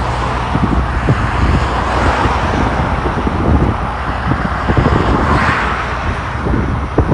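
Wind buffeting the microphone with a heavy low rumble, over steady road traffic noise; a passing vehicle swells up about five seconds in.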